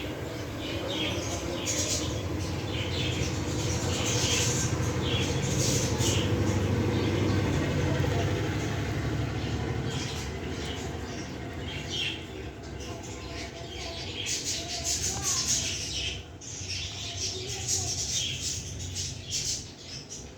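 A flock of budgerigars chattering and chirping with quick, high, repeated calls. A low rumble runs underneath, loudest in the first half.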